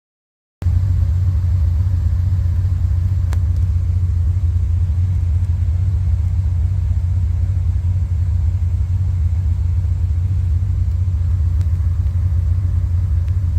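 1974 Triumph TR6's straight-six engine idling steadily with a deep, even rumble. It cuts in suddenly about half a second in.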